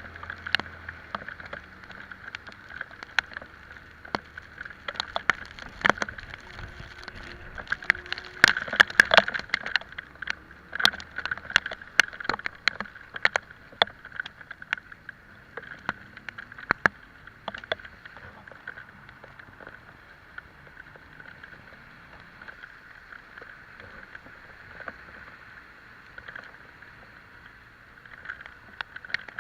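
Riding an Italika Vitalia 125 scooter in the rain: a steady hiss of wet road and wind with many sharp, irregular taps, as raindrops strike the camera. The taps are thickest about eight to ten seconds in, and the scooter's engine is faint underneath.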